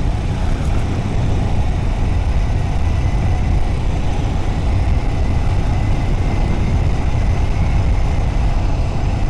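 Motorcycle running steadily at riding speed, its engine drone mixed with low wind rumble on the microphone.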